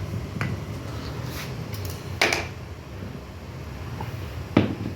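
Three short knocks over a steady low hum, the loudest a little after two seconds in.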